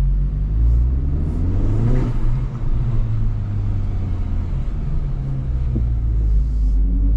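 2025 Honda Civic Type R's turbocharged 2.0-litre four-cylinder engine running at low revs while the car is driven, a steady low drone with the engine note rising briefly about two seconds in.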